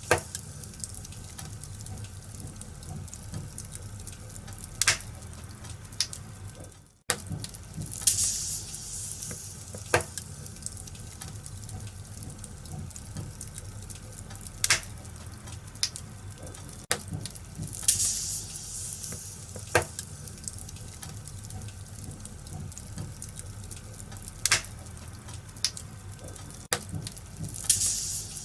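Wood fire crackling in a fireplace: a steady hiss with sharp pops every few seconds. The sound drops out for an instant about a quarter of the way in.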